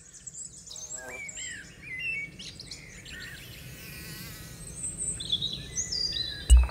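Several small songbirds chirping and singing over a faint low background rumble, with a sudden deep thump near the end.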